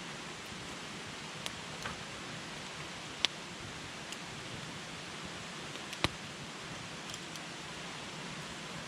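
Wood campfire burning: a steady hiss with scattered sharp pops and cracks of the burning wood, the loudest about three seconds in and again about six seconds in.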